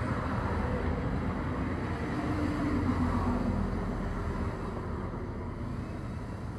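Low, steady rumble of a vehicle, with a faint hum that swells a couple of seconds in and then eases off toward the end.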